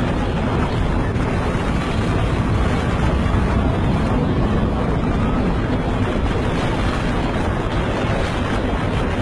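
Strong hurricane wind rushing and buffeting the microphone, a loud, steady noise.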